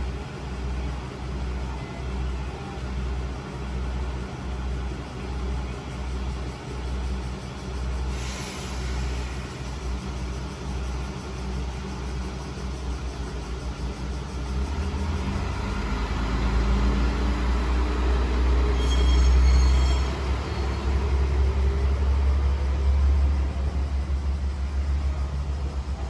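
Diesel railcar engine idling with a steady low throb, then revving up louder about halfway through as the car pulls away. A brief hiss sounds about a third of the way in, and a short high ringing squeal comes shortly after the engine picks up.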